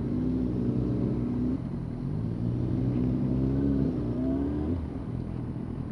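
A motor vehicle engine accelerating, its pitch climbing, dropping back about a second and a half in, then climbing again until near the end.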